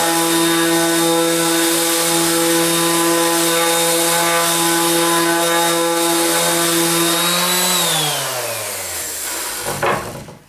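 Bosch orbital sander with 80-grit paper running steadily on rough-sawn cedar, then switched off about three quarters of the way in, its motor whine falling in pitch as it spins down. A brief noise follows near the end.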